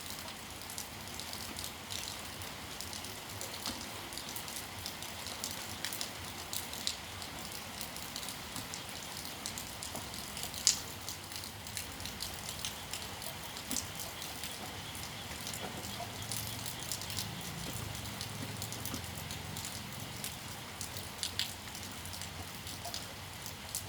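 Steady rain falling, a constant hiss dotted with many separate drops and drips; one sharper drop stands out a little under halfway through.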